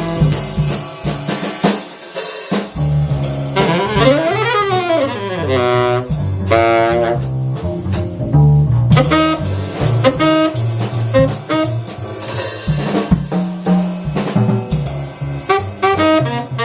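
Jazz trio playing: a tenor saxophone improvises a melodic line over a double bass and drum kit, with a quick run up and back down about four seconds in.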